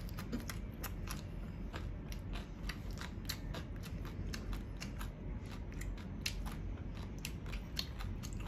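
Close-miked crunchy chewing of shredded green papaya salad: a steady run of small crisp crunches and clicks.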